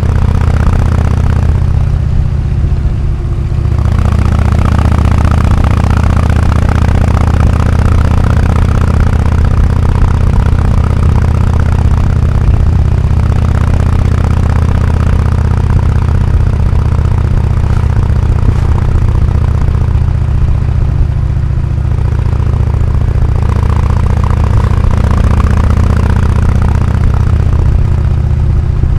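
Harley-Davidson Road King Classic's Twin Cam 103 V-twin engine running steadily through an AMC HD4 aftermarket exhaust, with a strong low note.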